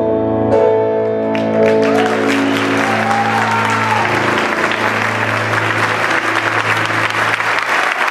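The final held chord of a tango song rings out and fades while audience applause starts about a second and a half in and swells to fill the rest.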